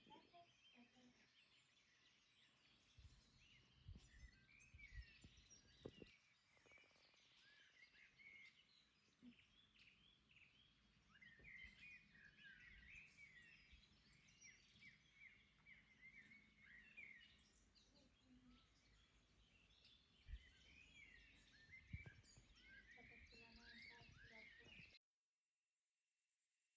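Faint birdsong outdoors: many small birds giving short, quick chirps and twitters, with a few low thumps. It cuts off abruptly near the end.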